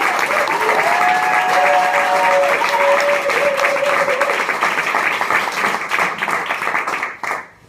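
Audience clapping, which stops abruptly just before the end. A few held tones sound over the clapping in the first half.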